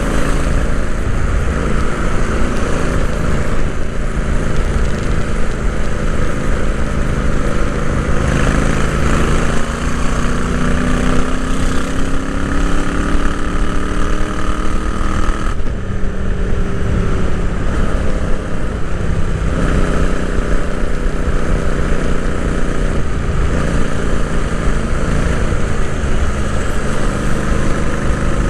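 Royal Enfield Interceptor 650's parallel-twin engine running under way. Its revs climb steadily for several seconds past the middle, then drop suddenly at a gear change a little over halfway through and settle to a steady pull.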